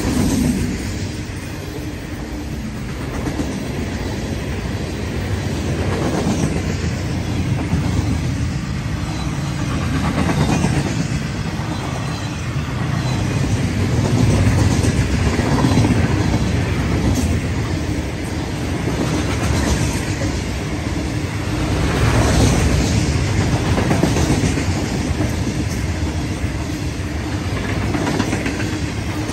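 Freight train cars rolling past at speed: a steady rumble of steel wheels on rail with recurring clatter, swelling and easing as car after car goes by.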